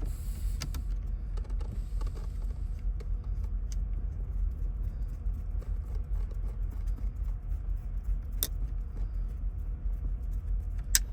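A few sharp small metal clicks, one of them about eight and a half seconds in and another near the end, as steering-column parts are handled, over a steady low rumble.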